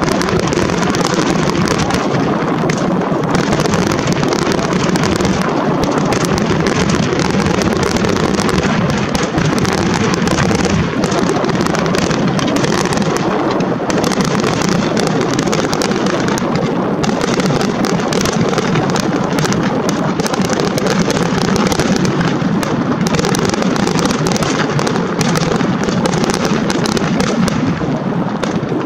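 Finale barrage of aerial firework shells: a dense, unbroken stream of booms and crackling bursts, with wind buffeting the microphone underneath.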